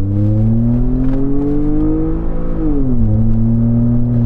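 Ford F-150 EcoBoost twin-turbo V6 accelerating hard, heard from inside the cab: the engine note climbs for about two and a half seconds, drops on an upshift, then holds steady as it pulls in the next gear.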